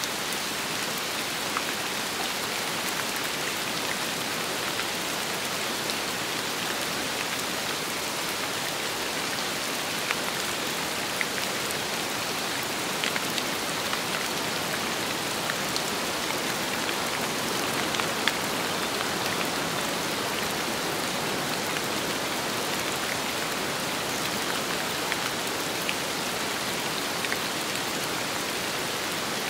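Steady rain falling, a dense even hiss with the patter of individual drops ticking through it.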